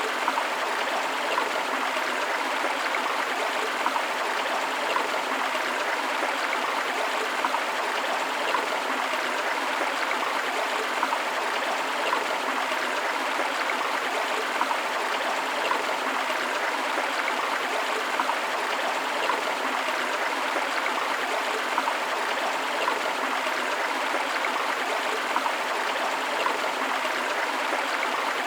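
Flowing river water running steadily, an even water noise with small irregular splashes and no pauses.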